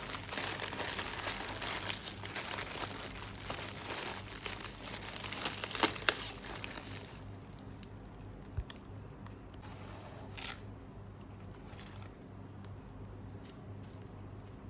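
Packaging crinkling and rustling as it is handled and pulled open, with a couple of sharp snaps about six seconds in. After about seven seconds it dies down to a few scattered rustles.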